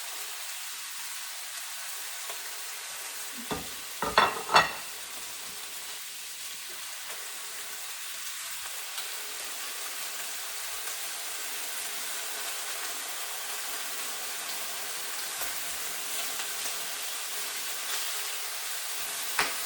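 Chicken drumstick pieces sizzling steadily as they fry in hot vegetable oil with ginger and green onion. A few sharp knocks come about four seconds in, and one more near the end.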